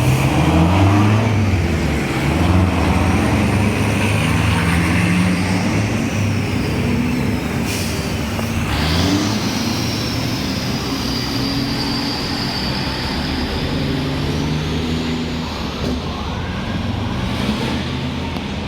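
Heavy diesel truck engines running and revving, their pitch stepping up and down, with a high thin whistle gliding over them through the middle and a sharp click about eight seconds in.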